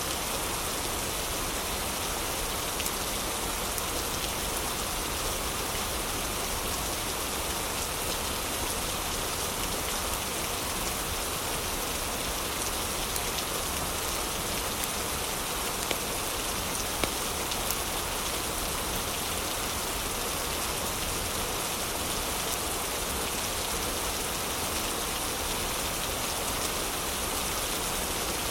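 Heavy rain falling steadily, an even rushing hiss with a few sharp ticks about halfway through.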